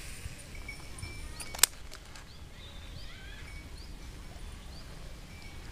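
Birds calling with short, faint rising chirps repeated every second or so over quiet outdoor background, with one sharp click about a second and a half in.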